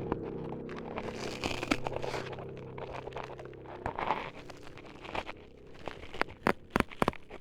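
Close-miked ASMR crinkling and crunching, over a low steady drone that stops about four seconds in, then a run of sharp clicks near the end.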